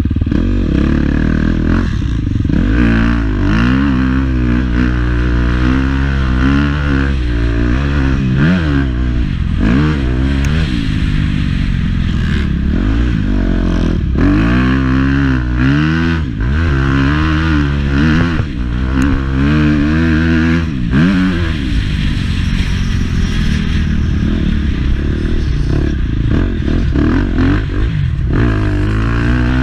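Motocross bike engine revving hard and easing off again and again, its pitch climbing and dropping every second or two, with a steadier spell later on.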